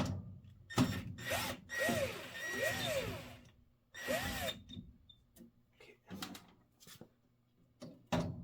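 Metal knocks and scraping as gas pipe fittings and tools are worked by hand, with a few short squeaky creaks that rise and fall in pitch. There is a sharp knock at the start and another near the end.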